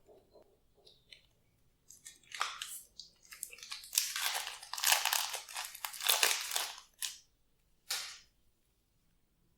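Glossy slime being squeezed and worked by hand, with crunchy crackling and popping. It starts about two seconds in, keeps going for about five seconds, and there is one more short crackle near the end.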